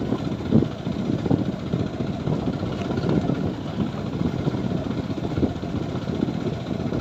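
A TVS Apache 4V motorcycle's single-cylinder engine running steadily while the bike is ridden along a rough dirt road.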